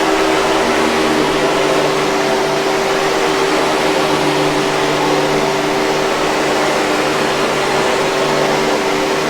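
Hoover 5000 Series canister vacuum cleaner running steadily: an even rush of air with a constant motor hum, unchanging throughout.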